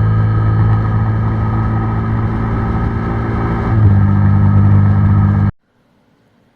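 KTM RC390's single-cylinder engine running steadily under way, with rushing noise over it. Nearly four seconds in, the engine note shifts slightly lower and gets louder. About a second and a half later, the sound cuts off abruptly into near silence.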